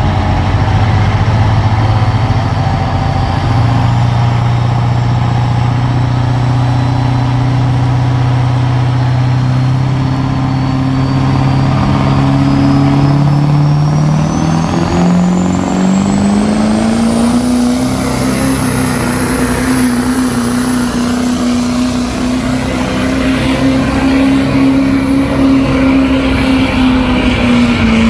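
Engine of a pulling truck or tractor running hard under load as it drags the weight sled. Its pitch holds steady, climbs about halfway through and stays high, with a thin high whine rising slowly alongside it.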